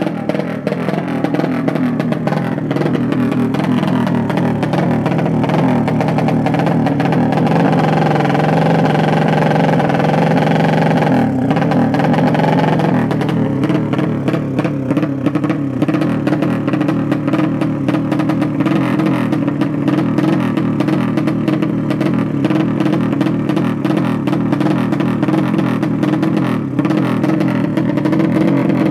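Drag-racing motorcycle engines running and revving, a loud continuous engine sound whose pitch wavers up and down.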